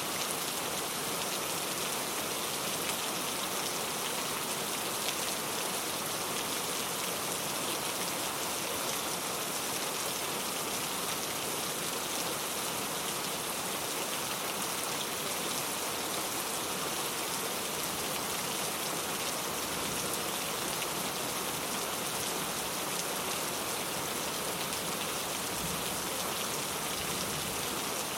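Steady heavy rain falling, a dense even hiss of raindrops with no distinct drips or thunder.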